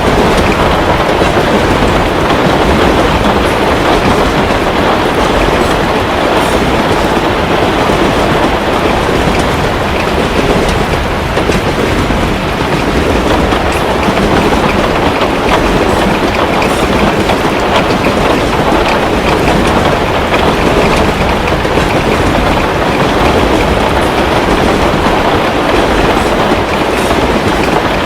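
Steady heavy rain, a dense even rush with a low rumble, with faint scattered pops of a crackling fireplace every few seconds.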